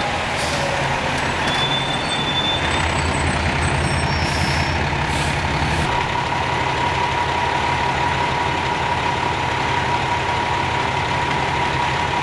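Fire truck's diesel engine running, heavier for the first six seconds and then settling lower, with short hisses of air brakes about four and five seconds in. A steady high-pitched tone sounds throughout.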